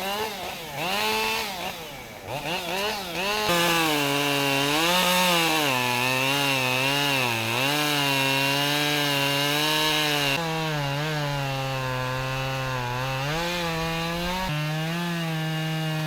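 Chainsaw running and cutting wood, its engine pitch rising and falling as it works through the cut. The sound changes abruptly a few times.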